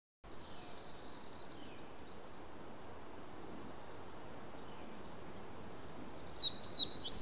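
Small songbirds trilling and twittering over a steady hiss of outdoor ambience, with two sharp, loud chirps close together near the end.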